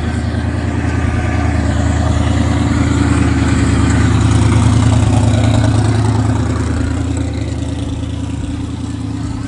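A car engine running loudly and deeply with a steady low note, growing louder toward the middle and easing off near the end.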